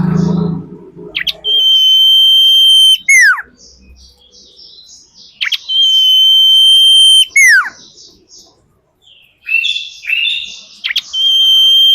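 Female common iora calling: a long, steady, high whistle ending in a quick falling note, given three times, with short chattering notes before the third. A brief low rumble at the start.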